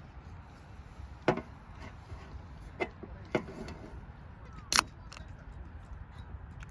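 Four sharp knocks at uneven intervals, the last the loudest, over a steady low rumble.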